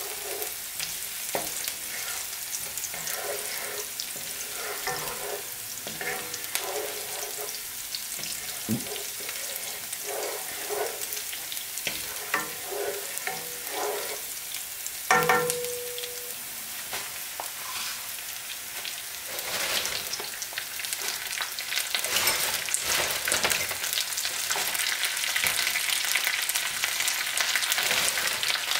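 Chopped aromatics sizzling in hot oil in a nonstick frying pan, stirred with a wooden spoon that scrapes the pan, with one sharp knock and a brief ring about halfway through. About two-thirds in, fresh spinach goes into the pan and the sizzle grows louder and denser.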